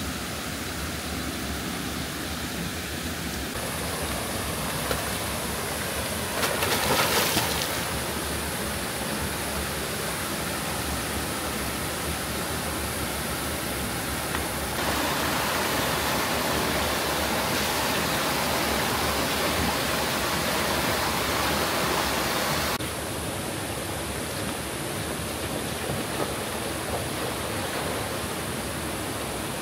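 Steady rushing of a jungle waterfall and river. Its loudness jumps up or down abruptly a few times, with a brief louder patch about seven seconds in.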